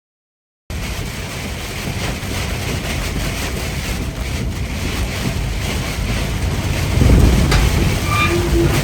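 Steady rumble and rushing of a truck on the move, road and wind noise, starting abruptly after a moment of dead silence. The rumble swells louder about seven seconds in, and a short high tone sounds near the end.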